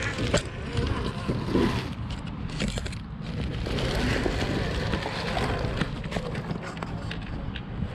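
Radio-controlled scale crawler trucks driving over rough ground, with crunching and crackling of dirt and gravel under the tires and many small clicks, and wind on the microphone.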